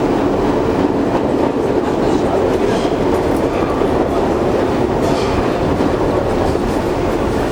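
R62 New York City subway car running at speed between stations, heard from inside the car: a steady, loud noise of wheels on the rails with a few faint ticks.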